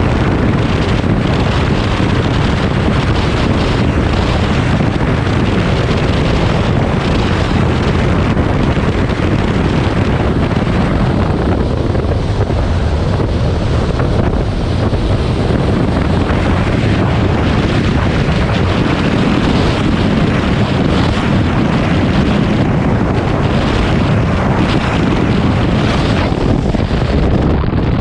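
Heavy wind buffeting the microphone over a steady rush of water and engine noise, as aboard a fast-moving powerboat.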